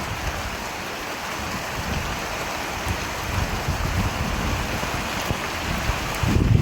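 Steady heavy rain falling, an even hiss with no break, and a brief low rumble near the end.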